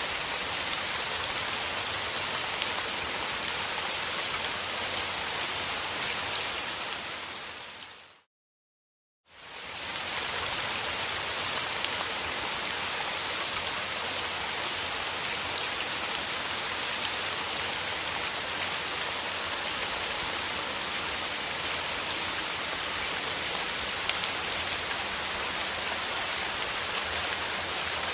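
Rain falling steadily, an even hiss. About eight seconds in it fades out to silence for about a second, then fades back in.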